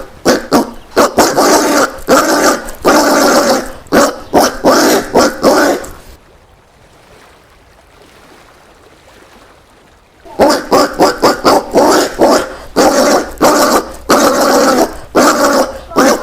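Collared peccary calling: short, harsh barking calls in quick runs of several a second. The calls stop for about four seconds midway, then start again.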